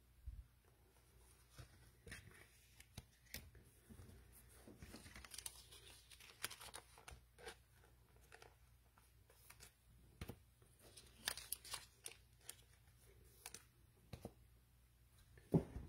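Faint, scattered clicks, taps and crinkles of trading cards and their packaging being handled and sorted, with a sharper click just before the end.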